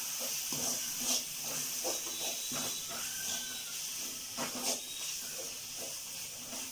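Thick onion-and-sauce masala sizzling with a steady hiss in a metal kadai while a slotted spatula stirs it, scraping and squelching against the pan several times.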